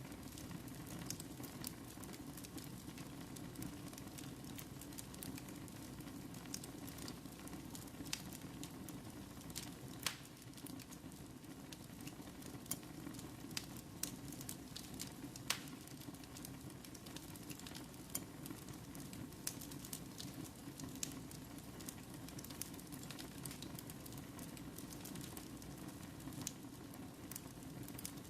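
Wood fire burning in a fireplace: a steady low rush of flames with frequent small crackles and sharp pops, two of them noticeably louder, about ten seconds in and again about fifteen seconds in.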